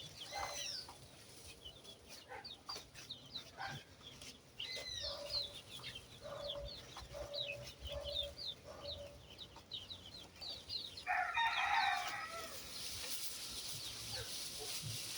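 A flock of 7-week-old layer chickens peeping and chirping, many short high calls with a few lower clucking notes, and a louder, harsher call about eleven seconds in. A steady hiss comes up near the end.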